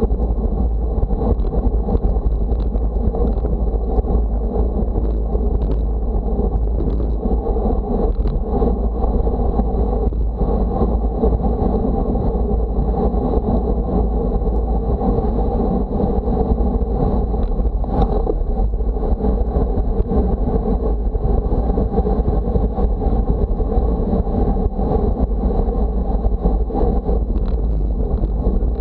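Steady wind rumble on the microphone, with a constant rush of road noise underneath, as from a moving rider on a windy day.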